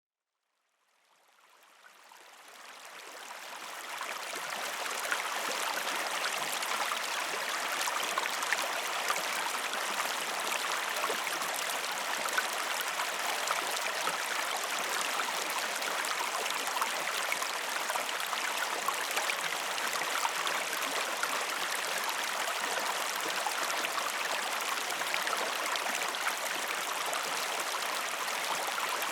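Stream water flowing steadily, fading in from silence over the first five seconds.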